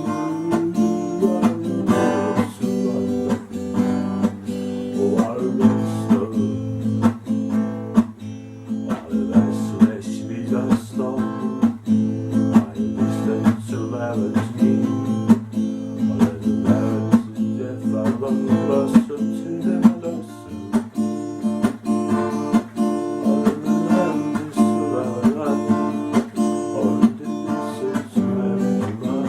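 Acoustic guitar playing a wordless improvisation, with plucked and strummed notes following one another in an unbroken run.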